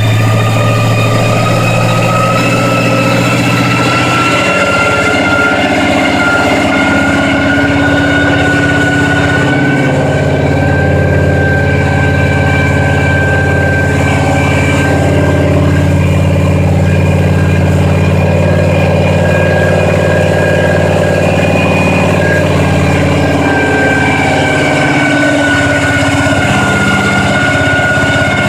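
A supercharged V8 in a hot-rodded 1936 International pickup running at idle on its first start-up, with its speed shifting slightly a few times. A steady high whine runs over the engine note and rises a little about a third of the way through.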